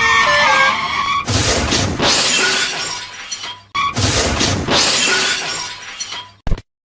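Added cartoon sound effects: a short descending run of notes, then two glass-shattering crashes, the second about two and a half seconds after the first, each tinkling away over about two seconds.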